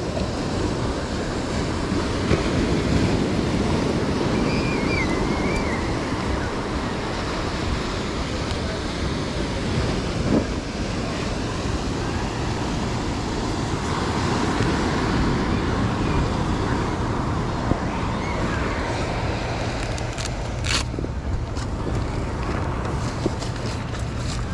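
Ocean surf washing onto a beach in a steady roar of breaking waves, with wind buffeting the microphone.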